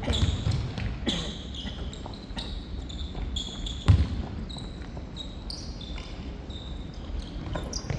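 Korfball play on a sports-hall court: a few dull thuds of the ball and feet on the floor, the loudest about four seconds in, with short high squeaks of shoes on the court in between.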